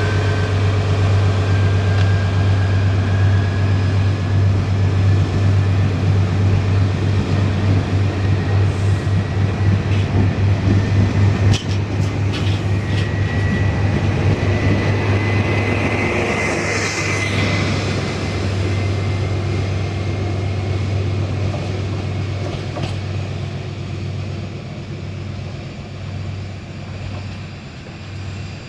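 A train moving through a station, with a steady low hum and a thin whine that slowly rises in pitch. A rhythmic clatter of wheels comes with a few sharp clicks around the middle, and the sound fades gradually over the last third.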